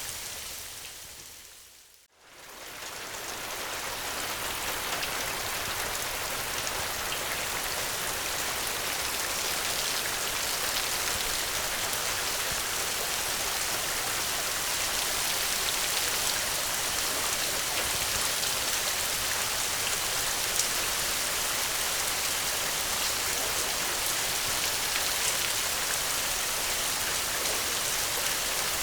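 Steady rain, a dense even hiss of falling drops. About two seconds in it fades out to near silence and quickly fades back up, a join between looped recordings, then runs on evenly.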